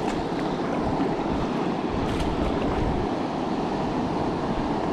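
Steady rush of river water around a whitewater raft, mixed with wind on the microphone.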